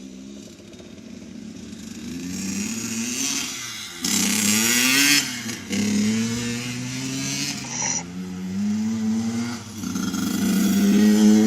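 85cc two-stroke dirt bike accelerating hard through the gears. The engine note climbs and drops back at each of several upshifts.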